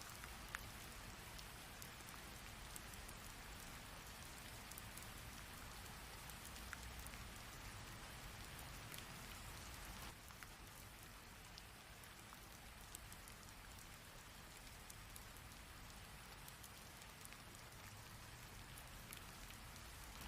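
Heavy rain pouring steadily, a dense even hiss dotted with sharp ticks of single drops striking; it eases slightly about halfway through.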